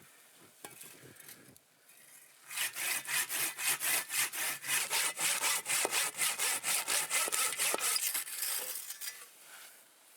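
A hand saw cutting through wood with quick, even back-and-forth strokes, about four or five a second, starting a couple of seconds in and stopping near the end.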